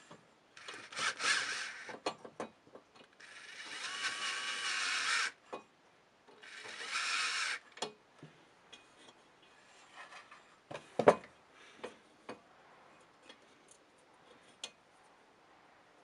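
A small hand-held power tool running in three short bursts, the middle one the longest, followed by scattered light clicks and one sharp knock.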